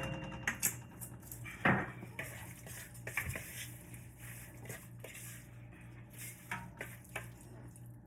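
Metal cooking utensils clinking and knocking against a pan, in irregular strokes, over a low steady hum.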